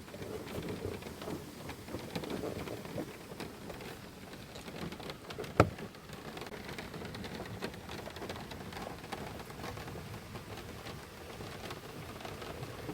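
Rain falling, many small drops ticking onto a surface, with one sharp knock a little before halfway through that stands out as the loudest sound.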